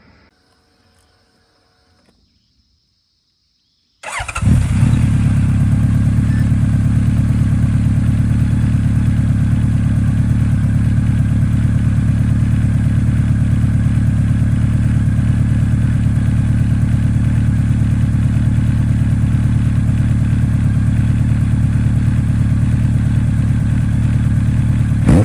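Honda CB1100RS air-cooled inline-four with a Moriwaki aftermarket exhaust starts up about four seconds in, then idles steadily with a deep, even exhaust pulse.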